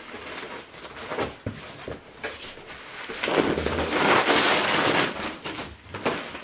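Packing material being pulled out of a cardboard box: scattered knocks and scrapes, then a loud stretch of rustling and scraping about halfway through.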